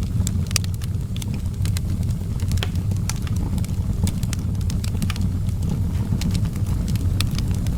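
Outdoor wood fire burning, with frequent irregular sharp crackles and pops over a steady low rumble.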